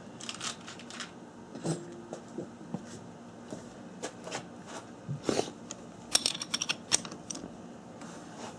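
Small steel screws being rummaged through and picked out by hand: scattered light clicks and clinks, with a quick run of rattling clinks about six seconds in.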